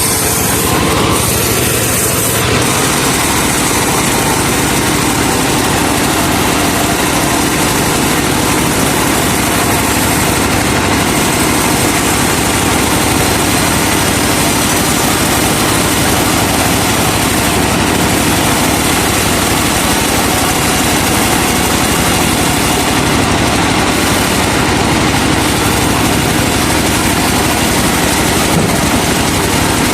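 Truck-mounted sawmill running, its truck engine driving the saw in a loud, steady mechanical din.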